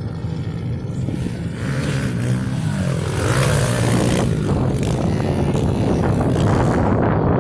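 Pit bike engine running and revving, its pitch rising and falling about two to four seconds in.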